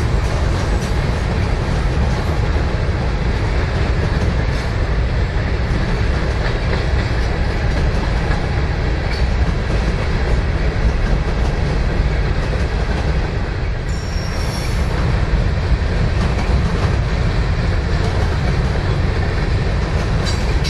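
Freight train cars rolling past close by, a loud steady rumble with wheels clicking over rail joints. A brief high wheel squeal comes about 14 seconds in and again near the end.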